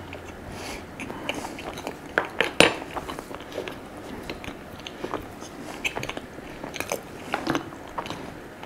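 A person chewing and biting a crepe close to the microphone: soft, irregular mouth clicks and crunches, with one sharper click about two and a half seconds in.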